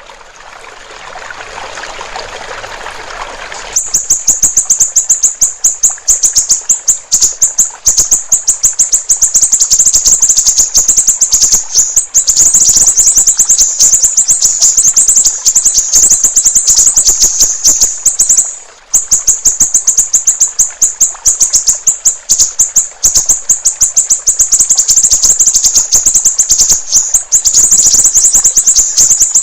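A trickle of running water, then from about four seconds in a siri-siri bird singing a loud, very fast, high-pitched rattling chatter that breaks off briefly around the middle.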